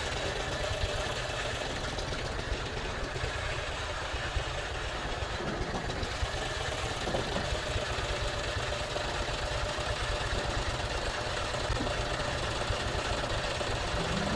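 Tractor engine running steadily, a low, even rumble.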